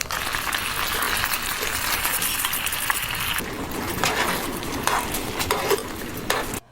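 Food sizzling in a pan, with a steady hiss and scattered light clinks and clicks of utensils; it cuts off abruptly near the end.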